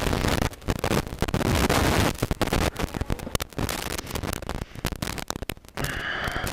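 Two inline-four sport bikes, a Yamaha YZF-R1 and a Honda CBR1000RR, running side by side at a standstill, heard as irregular crackling and buffeting on a helmet-mounted microphone. Near the end the R1 pulls away and the sound turns briefly steadier and higher.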